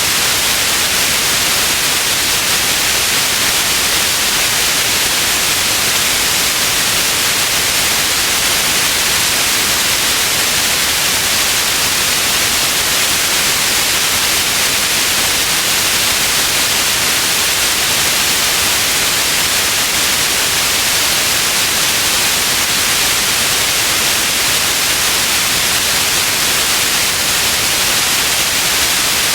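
Steady electronic white noise: an even, unchanging hiss, strongest in the high frequencies.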